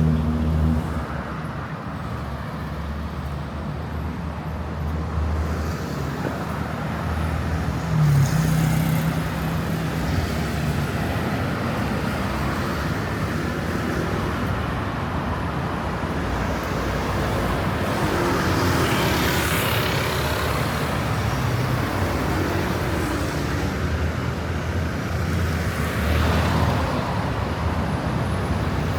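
City street traffic: a steady mix of vehicle engines and tyre noise, with a louder vehicle passing by about two-thirds of the way through.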